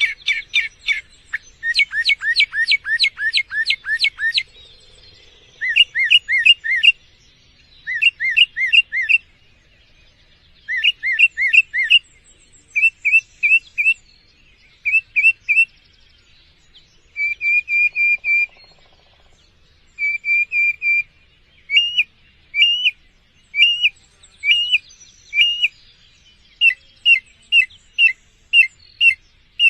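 A songbird singing: loud phrases of one short whistled note repeated several times in quick succession, each phrase a different note, with short pauses between phrases.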